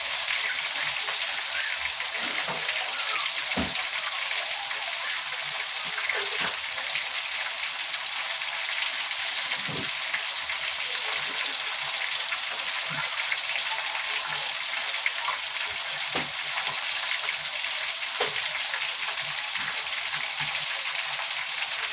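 Coated chicken pieces deep-frying in canola oil, a steady sizzling hiss with a few short pops or knocks scattered through it.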